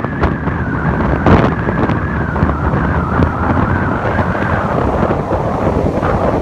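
Strong typhoon wind gusting against the microphone, with rough sea surf mixed in underneath.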